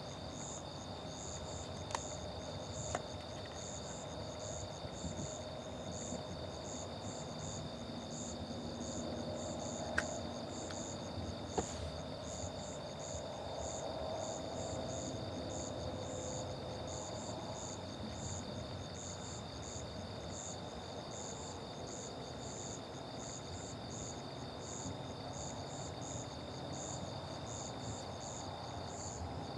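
Crickets and other insects chirping: a high chirp pulsing at an even rhythm over a steady high trill, with a few faint clicks.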